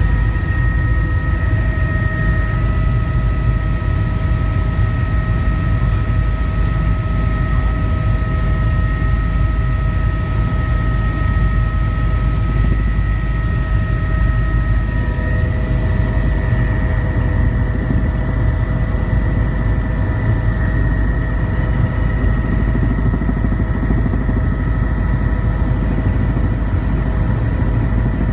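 Helicopter in flight: a steady, loud low drone of rotor and engine with several steady whining tones above it. About halfway through, the whine tones shift slightly in pitch.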